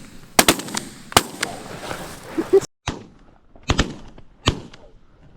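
Shotgun blasts from several goose hunters firing at a flock: a rapid string of shots, then after a short gap a few more.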